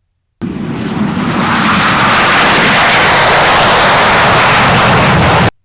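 L-39 Albatros jet's turbofan engine running at power, a loud steady rush of jet noise. It starts abruptly just after the beginning, swells slightly over the first second, and cuts off suddenly near the end.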